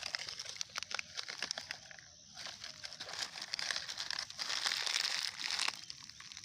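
Plastic litter crinkling and crackling as it is picked up and handled, in irregular bursts that are loudest through the middle.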